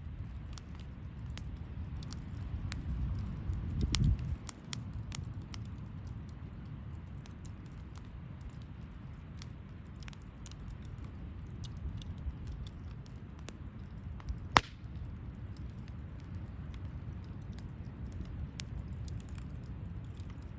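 Wood campfire burning, with scattered crackles and pops over a low rumble of flame. The rumble swells a few seconds in, and one pop about two-thirds of the way through is much louder than the rest.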